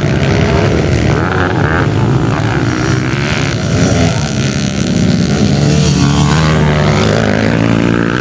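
Motocross bike engines running hard, their pitch rising and falling with the throttle.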